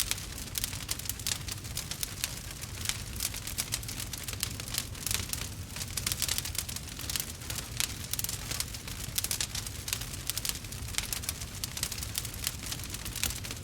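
Wood fire burning, with dense, irregular crackles and pops over a low rumble.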